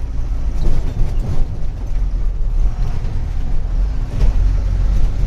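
Truck driving along the road, heard from inside the cab: a steady low engine and road rumble, with a few short knocks and rattles, one clear one about four seconds in.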